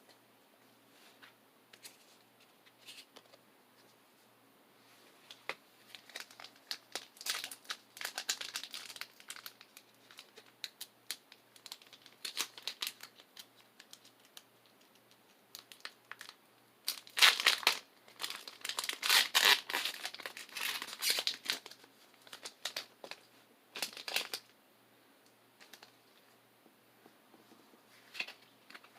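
Foil Pokémon booster pack wrapper crinkling and being torn open in several spells of crackling. The loudest spell comes a little past the middle.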